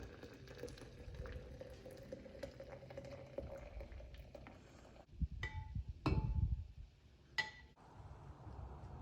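Three light metallic clinks, each ringing briefly, come in the second half, the first two about half a second apart and the third about a second later, with soft low thumps alongside the first two.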